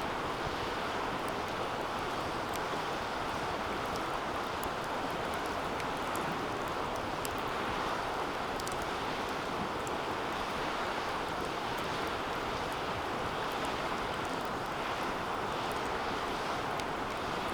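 Wood fire burning in a fire pit: a steady rushing of the flames with sparse faint crackles.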